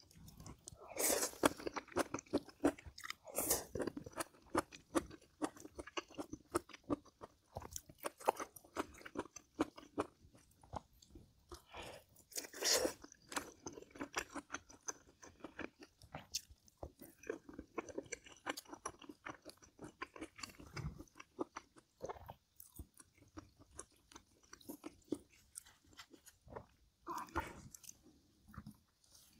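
A person eating close to the microphone: chewing and crunching food, with many small irregular clicks and a few louder crunches.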